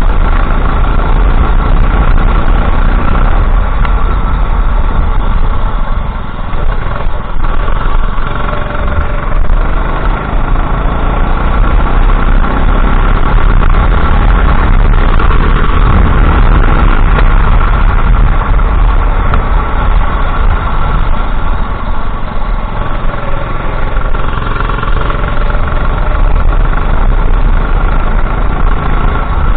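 Go-kart engine running hard throughout, its pitch rising and falling as the throttle opens and closes, with brief dips in loudness.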